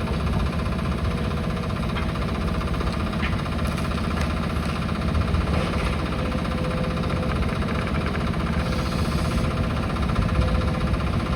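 Demolition excavator's diesel engine running steadily, with a few faint knocks.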